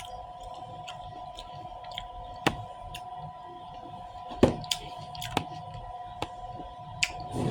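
Close-up mouth sounds of someone chewing fruit: wet smacks and sharp clicks scattered irregularly, a few louder ones about two and a half and four and a half seconds in.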